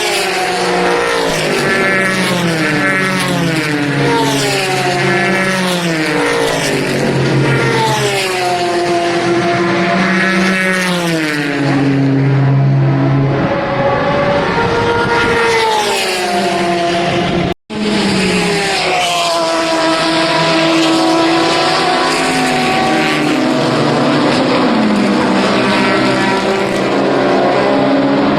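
Racing car engines passing at speed. The pitch repeatedly falls in steps and climbs again through gear changes, and the sound cuts off abruptly for an instant about two-thirds of the way through before more cars are heard.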